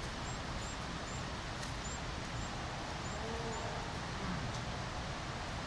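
Steady outdoor background hiss, with a bird giving a string of about seven short, high, rising chirps evenly spaced through the first three and a half seconds.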